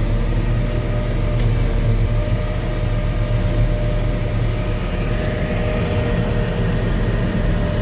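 Volvo L70H diesel wheel loader with a snow blower attachment running steadily, heard from inside the cab: a loud, constant low drone with steady whining tones above it.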